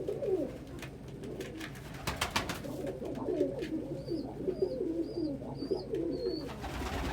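Pigeons cooing over and over, with a few sharp knocks. Midway there is a run of five short, high cheeps.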